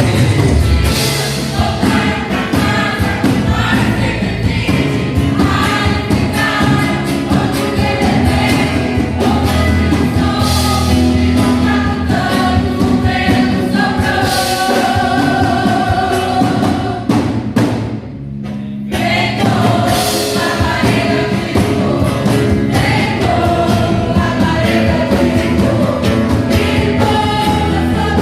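Gospel worship song: a choir singing over instrumental accompaniment, thinning out briefly about eighteen seconds in before it picks up again.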